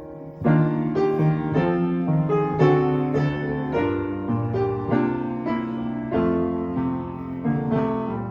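Piano playing a slow worship-song arrangement, with chords struck about twice a second and left to ring, growing gradually softer toward the end.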